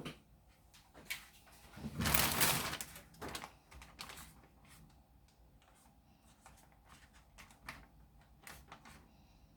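Plastic freezer bag being pressed and closed: scattered light clicks and rustling, with one louder rustle about two seconds in.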